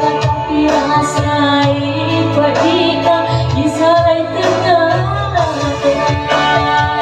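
A woman singing a pop song with a wavering melodic line over instrumental backing and a steady bass.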